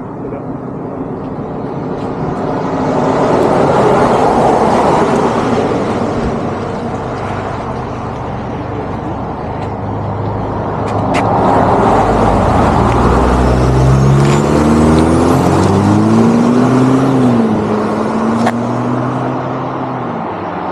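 Road traffic passing close by: a vehicle goes past about four seconds in, and a second one from about eleven seconds on, its engine tone rising and then falling as it passes.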